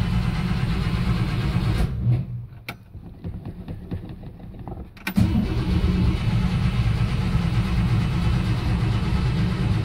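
1961 Cadillac's V8 being cranked on the starter from inside the car, cold after three years sitting and stubborn to catch. It cranks for about two seconds, stops with a click in the pause, then cranks again from about five seconds in.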